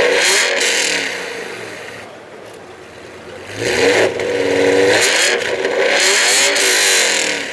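Lamborghini Aventador's V12 engine revving hard twice: a loud surge at the start that dies away over a couple of seconds, then a second, longer surge from about halfway, with the pitch climbing and falling.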